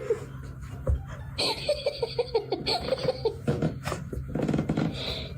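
A person laughing in quick runs of short repeated 'ha-ha' bursts, once at the start and again from about one and a half seconds in.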